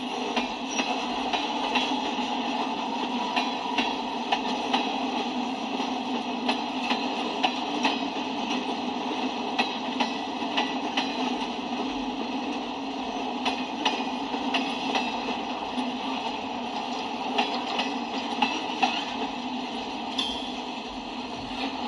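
Freight cars of a CSX manifest train rolling past: a steady rumble of steel wheels on the rails, with repeated sharp clicks from the wheels, often in pairs.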